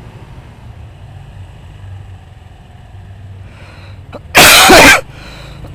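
Low steady background rumble, then about four and a half seconds in a person sneezing loudly close to the microphone.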